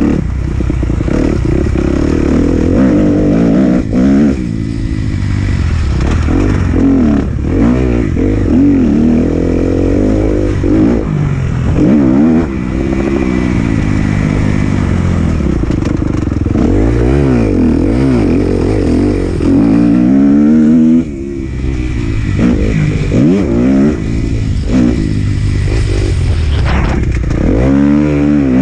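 2018 Kawasaki KX250F motocross bike's four-stroke single-cylinder engine being ridden hard, its pitch rising and falling again and again with throttle and gear changes. The throttle is shut briefly about 21 seconds in.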